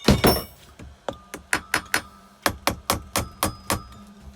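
Metal being struck repeatedly, as with a hammer on the engine: a heavy knock, then a quick run of sharp taps at about four to five a second with a faint ringing note.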